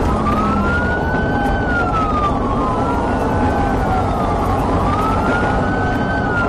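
Police car siren wailing, its pitch rising and falling about every two seconds, over a steady rumble of engine and road noise.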